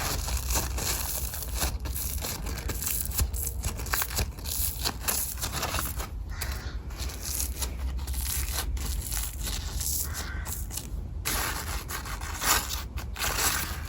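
Close-up crackling and crinkling rustle, like something dry being crushed and rubbed right at the microphone. It goes on without a break as a dense run of small clicks, over a steady low rumble.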